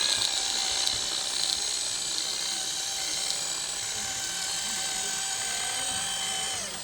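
Small electric motor and gearbox of a radio-controlled model vehicle whining steadily at a high pitch, then winding down and stopping near the end.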